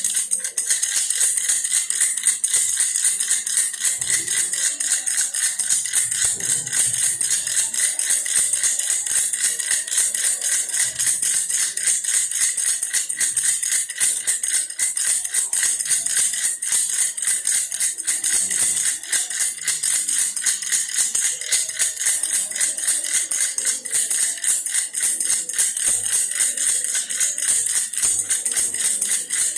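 Plastic baby toy bear rattle being shaken continuously, a fast unbroken rattling with no pauses.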